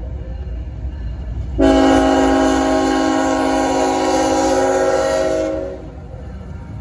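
A freight locomotive's multi-chime air horn sounds one long blast, starting about one and a half seconds in and lasting about four seconds, over the steady rumble of a passing train.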